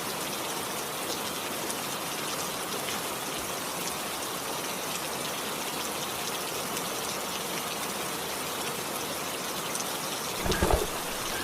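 Steady rain falling, an even hiss of water. A brief low thump near the end.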